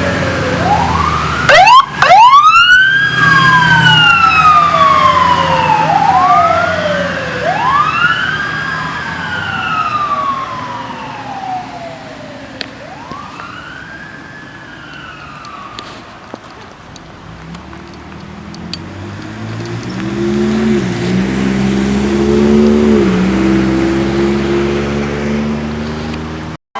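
Fire apparatus siren wailing, each sweep climbing quickly and sliding slowly back down, fading away over several cycles. Later a heavy engine is heard revving up in steps as a vehicle accelerates.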